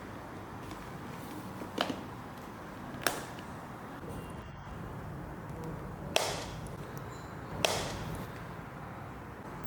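Four sharp plastic clicks and snaps, a second or more apart, as the pool vacuum's filter housing and filter are handled and latched, over a steady low background noise.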